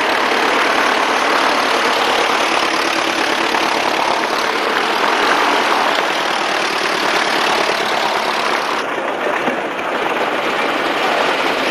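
An engine runs steadily and loudly close to the microphone, with a fast, even pulsing. The sound eases slightly about nine seconds in.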